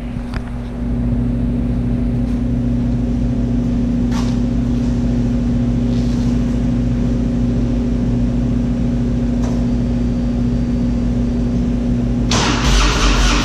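A steady electrical hum, then about a second before the end a loud rush of engine noise as the Harley-Davidson Road King is started. Its Twin Cam V-twin carries a 95-cubic-inch kit with bigger cams and runs through a 2-into-1 exhaust.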